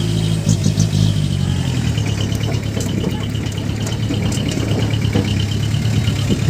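Heavy truck's diesel engine running steadily at low revs, its pitch dropping slightly about two seconds in. A faint, rapid high pulsing tone runs alongside from about two seconds on.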